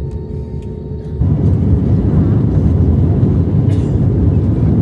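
Vehicle on the move: a steady low road-and-engine rumble that turns abruptly louder about a second in and stays loud.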